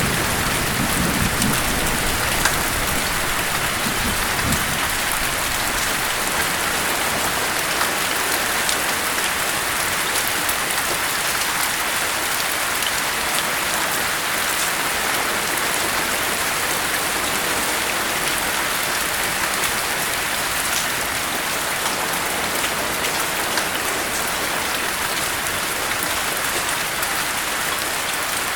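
Steady heavy rain: an even hiss with scattered drop ticks. A low rumble of thunder dies away in the first second.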